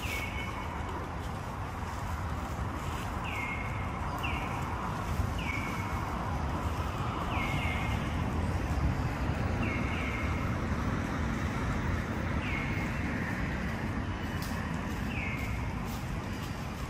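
A bird repeats a short, falling whistled call every one to three seconds over a steady low background rumble.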